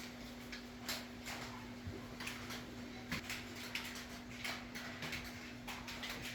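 Irregular light clicks and knocks, a few a second, over a steady low hum.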